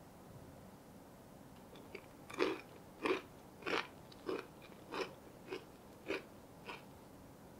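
Close-up chewing of a crisp chocolate-marmalade icebox cookie: eight crunchy chews, about one every 0.6 s, starting a little over two seconds in.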